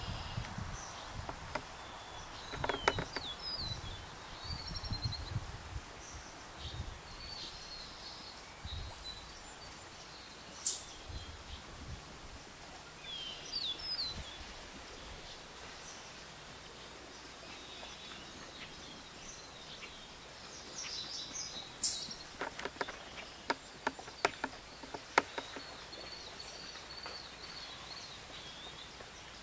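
Outdoor wetland ambience: small birds chirping now and then over a steady hiss, with low wind rumble on the microphone in the first few seconds and sharp clicks about 11 and 22 seconds in.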